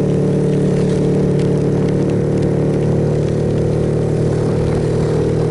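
Suzuki Yes motorcycle's single-cylinder engine running steadily at cruising speed, with wind and rain noise over it.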